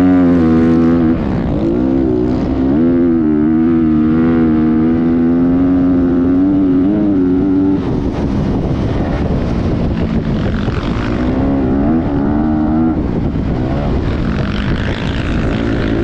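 Motocross dirt bike engine running, its pitch rising and falling as the throttle is opened and eased off.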